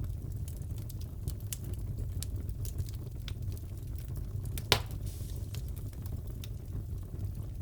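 Fireplace fire crackling: a steady low rumble of flames with frequent small snaps, and one sharp, much louder pop a little after halfway.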